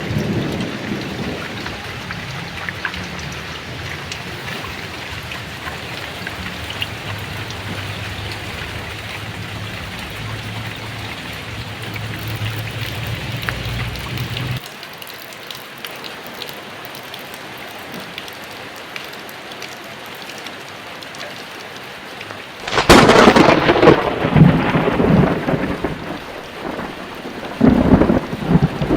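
Heavy rain falling steadily in a thunderstorm, with low rolling thunder that cuts off abruptly about halfway through. A sharp, loud thunderclap breaks about 23 s in and rolls on for a few seconds, followed by another rumble near the end.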